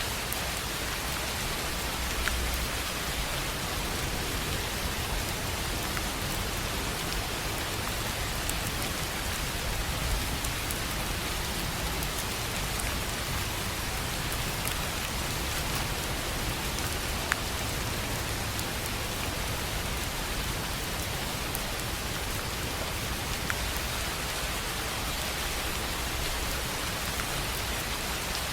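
Steady rain on a tin roof: an even hiss of rain with a few sharper single drop taps scattered through it.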